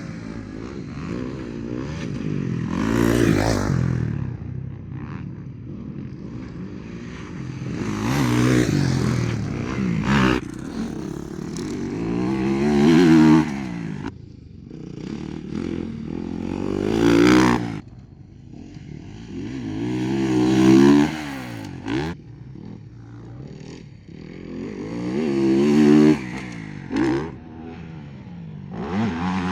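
Motocross bikes passing one after another, each engine revving up loud and falling away, about six passes at intervals of four or five seconds.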